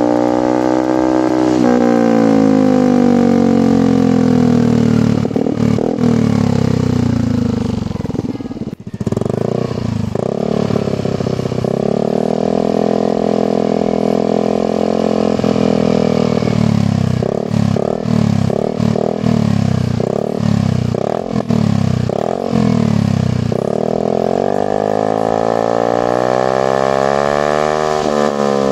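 Yamaha NMAX scooter's single-cylinder engine revved through a long oval DOS-style replica aftermarket silencer. The pitch rises and falls with the throttle, drops briefly to low revs about a third of the way in, then a run of quick throttle blips follows. Near the end comes a held rev that falls and climbs again.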